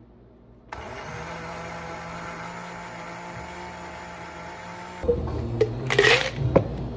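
A steady electrical hum with several fixed tones starts just under a second in and holds until about five seconds, when sharp knocks and louder, busier sounds take over.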